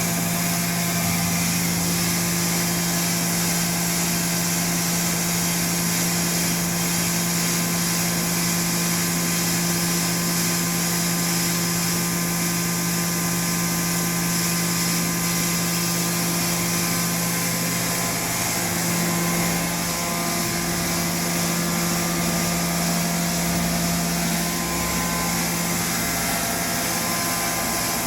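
A machine running steadily, with a constant hum under a broad hiss.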